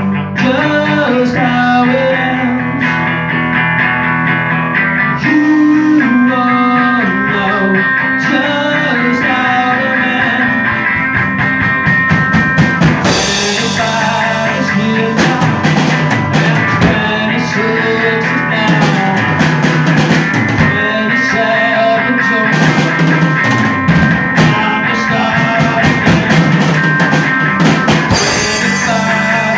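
Live rock band playing: electric guitars and a drum kit, with cymbals crashing in about halfway through and again near the end.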